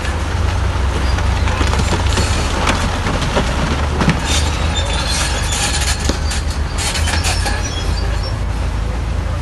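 Heavy diesel bulldozer engine running steadily, with metallic clanking and short squeals from its crawler tracks and the stone it moves, thickest from about one and a half to seven and a half seconds in.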